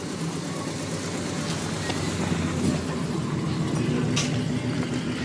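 Car engine running low and steady, growing a little louder as it nears, with one sharp click about four seconds in.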